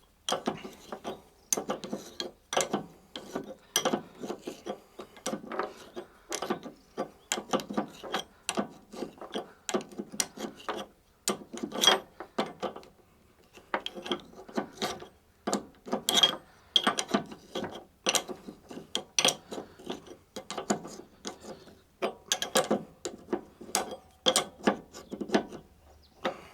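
Rapid runs of small metallic clicks as the nut is screwed back down onto the Lada Kalina's strut rod, over the freshly greased mount washer. There is a short lull about halfway.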